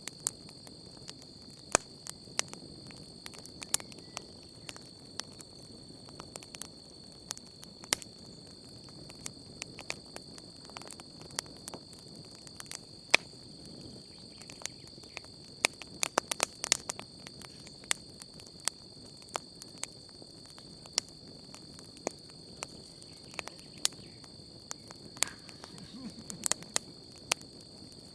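Wood campfire crackling, with irregular sharp pops that come in a quick flurry about halfway through, over a soft low burning rush. A steady high cricket trill runs underneath.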